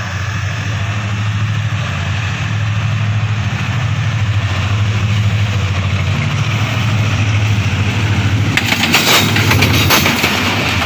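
Diesel-electric locomotive engine running with a steady low drone; about eight seconds in, sharp clattering clicks of train wheels over the rails join it.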